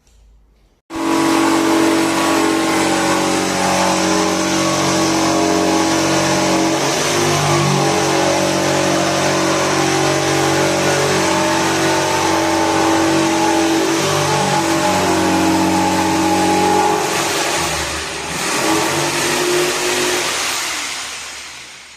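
An electric woodworking power tool starts abruptly about a second in and runs steadily at full speed for about sixteen seconds, then dips, changes pitch and fades away near the end.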